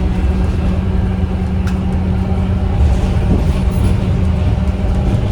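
Scania K230UB bus's Scania DC9 diesel engine running steadily at an even pitch, a loud low drone. There is a single light click about one and a half seconds in.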